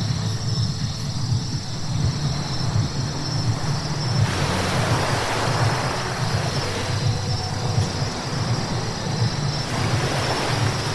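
Car driving on a wet road: steady low road rumble with a hiss of tyres on wet tarmac that swells about four seconds in and again near the end.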